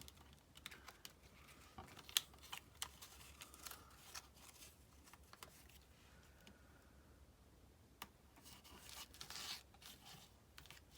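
Faint paper-handling sounds: scattered small clicks and taps, then a stretch of rustling near the end, as adhesive hole-reinforcer stickers are peeled off their sheet and pressed onto a paper tag.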